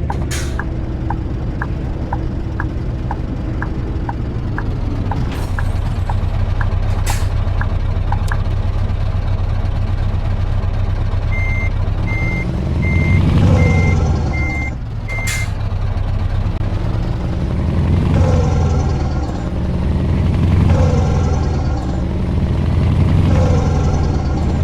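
Scania V8 truck engine running, with a regular ticking about twice a second through the first third and a few sharp clicks. About halfway through, six short evenly spaced beeps sound, and then the engine pitch rises and drops again and again as the truck pulls away through the gears.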